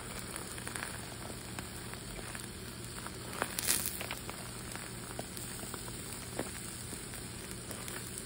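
Eggs frying in a skillet: a steady sizzle with scattered small pops and crackles, and one louder crackle about three and a half seconds in.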